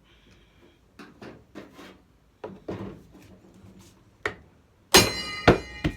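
Hands scraping and knocking as the old gas tank and its bracket are worked off a Tecumseh 6.5 hp engine. Near the end come a loud metal clank that rings on, then two more quick knocks.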